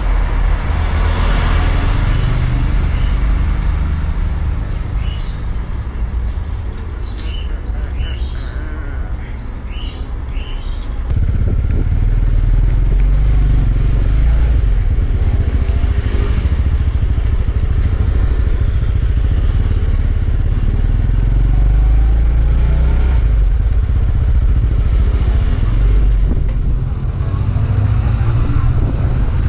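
Road traffic, motorcycles among it, making a steady low rumble that grows louder about eleven seconds in. A few short bird chirps come through in the first ten seconds.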